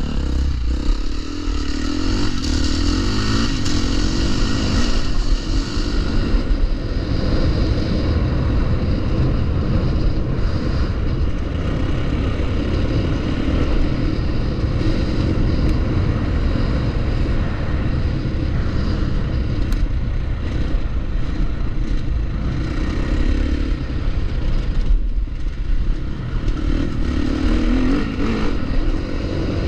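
Dirt bike engine running continuously under way, its pitch rising and falling with the throttle, over a heavy low rumble.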